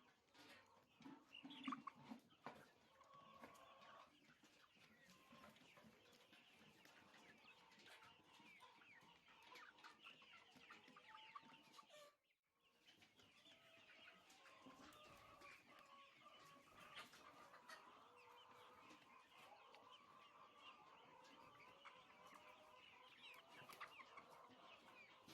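Faint flock of chickens clucking and cheeping, many birds calling over one another, with a short dropout about twelve seconds in.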